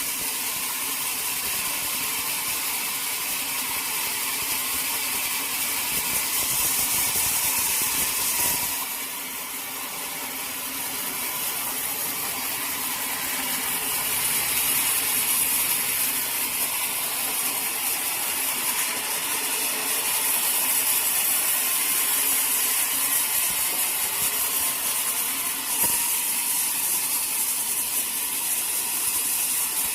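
Sawmill machinery running steadily with a continuous mechanical rattle and hiss, dipping briefly about nine seconds in and building back up a few seconds later.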